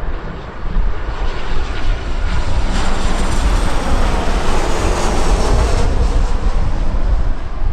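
A jet airliner passing, its engine noise swelling to a peak in the middle and then easing off, over steady wind rumble on the microphone.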